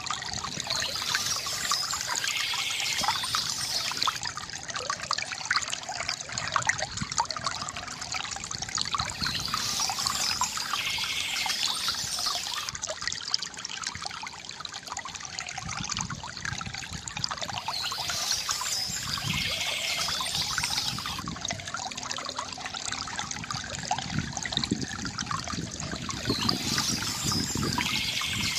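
Stream water trickling and splashing steadily. A higher-pitched sound lasting a few seconds comes back four times, about every eight and a half seconds.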